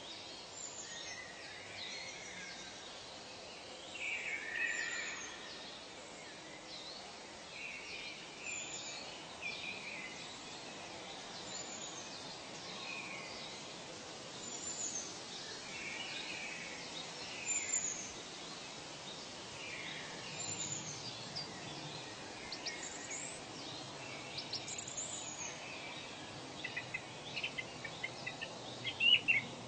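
Several birds calling and chirping over a steady background hiss. A thin, high, falling note repeats about every three seconds, and a quicker series of louder chirps comes in near the end.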